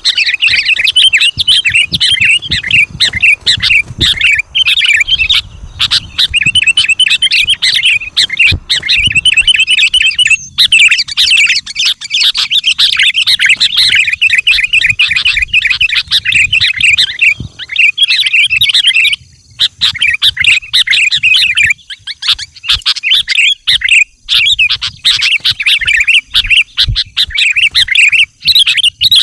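Sooty-headed bulbul (kutilang) singing and chattering: loud, rapid runs of short notes with only brief pauses. A low rumble runs underneath during the first half.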